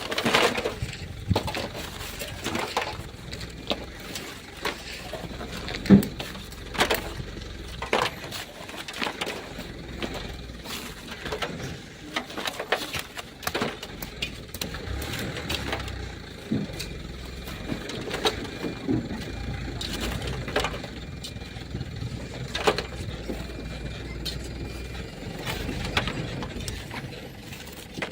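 Black sand and gravel being dug and shovelled by hand: irregular scraping crunches and knocks every second or two, one sharp knock standing out about six seconds in.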